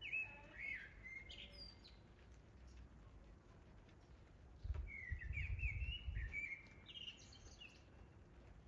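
A songbird singing two short chirping phrases of quick gliding notes, one at the very start and a longer one about five seconds in, over a faint steady background hiss. A low rumble comes in with the second phrase and fades after about a second and a half.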